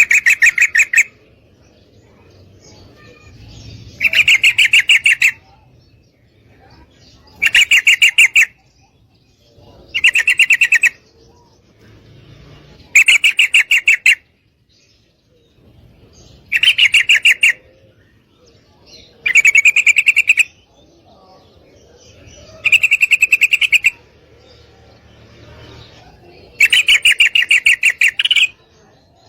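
Female yellow-vented bulbul giving a rapid chattering trill, repeated nine times at intervals of three to four seconds, each burst lasting a second or more: a female calling for a mate.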